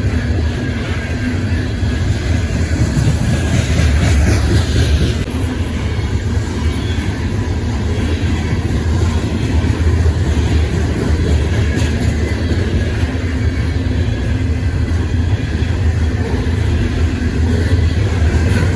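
Freight train rolling past on the rails: a loud, steady rumble of wheels and cars with no letup.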